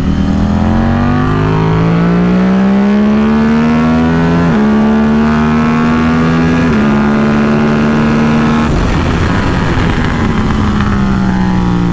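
KTM RC8C track bike's parallel-twin engine pulling hard under full throttle. The revs climb for about four seconds and drop in two quick steps as the rider shifts up. Near the end the revs fall steadily as the bike slows for a corner.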